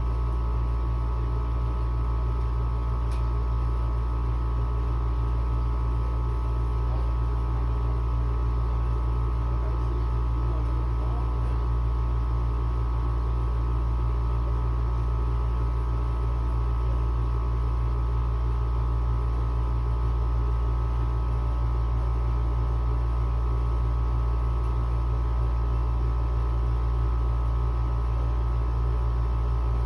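Window air conditioner running on high, its compressor and fan making a steady, even hum with a low drone and a higher steady tone over it.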